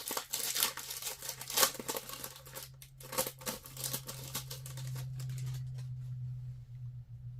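A trading card pack's wrapper crinkling and tearing as it is pulled open, with cards handled. It is a dense run of sharp crackles for about the first three and a half seconds, then it thins out, leaving a low steady hum.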